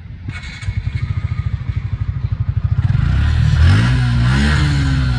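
Motorcycle engine idling with a steady putter, then revved about three seconds in, its pitch rising and falling before it runs on faster and louder. It is being warmed up with engine flush added to the oil, so the flush washes the engine out inside.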